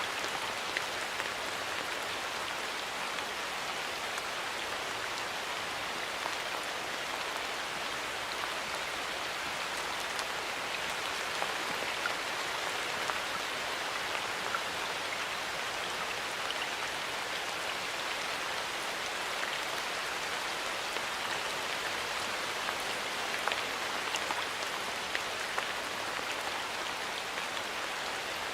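Steady rain falling in a forest, an even hiss with individual drops pattering on leaves and the ground.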